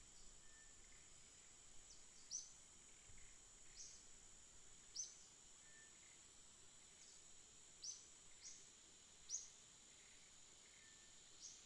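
Birds chirping: short, sharp, high chirps every second or so, over a steady high-pitched background hiss.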